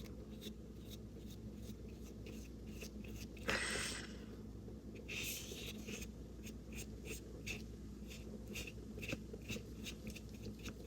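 Faint scratching and light ticks of a small flat paintbrush drawing acrylic wave lines across primed paper, with a brief louder rustle about three and a half seconds in, over a low steady hum.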